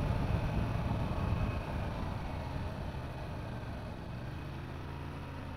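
Yamaha R7's parallel-twin engine running steadily, gradually getting quieter over a few seconds.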